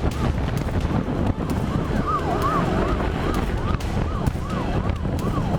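Police siren in a rapid yelp, its pitch sweeping quickly up and down and growing clearer about two seconds in, over loud, heavy rumble and wind noise.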